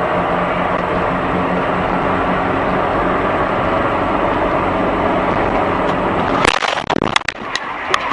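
Car interior engine and road noise running steadily, then about six and a half seconds in a sudden loud crash, followed by several sharp knocks and clatters.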